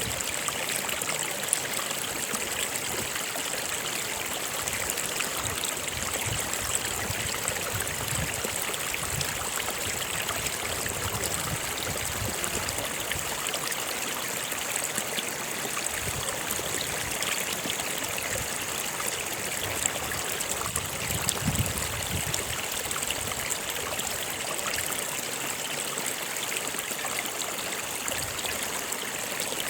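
Stream water running steadily, with irregular low gurgles.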